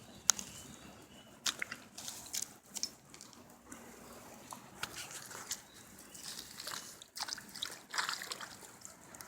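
Water trickling and sloshing through muddy ground, with irregular short splats and scrapes.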